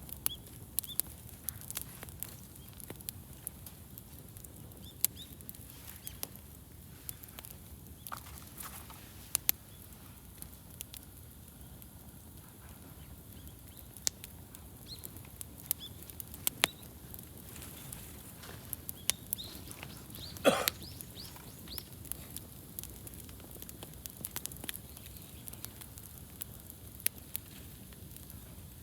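Wood campfire crackling, with frequent sharp pops over a low steady rumble of burning, and one louder burst about two-thirds of the way through.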